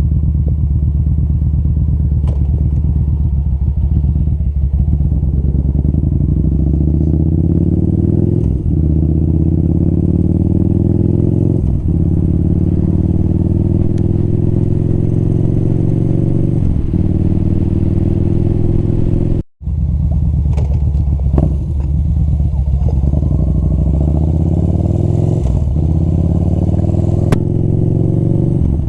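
Motorcycle engine running while riding, its pitch climbing and then dropping back several times. The sound cuts out for a split second about two-thirds of the way through.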